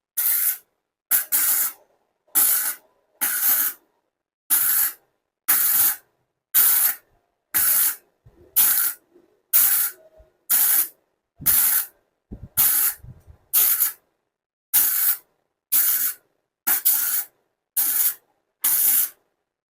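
Kobe 315 Pro MIG welder arc in short pulses: about nineteen bursts of hiss, each roughly half a second long, about one a second, each stopping sharply. This is a thin box-section steel joint being stitch-welded with short trigger pulls.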